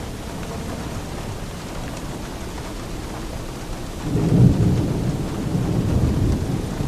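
Steady rain falling, with a roll of thunder rumbling in about four seconds in, loudest just after it starts and rolling on to the end.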